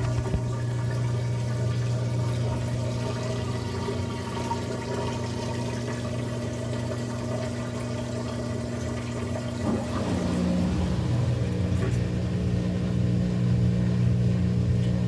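Maytag Bravo washer's drain pump running during the spin cycle, a steady hum with water rushing out. About ten seconds in, the hum changes to a different note and gets a little louder.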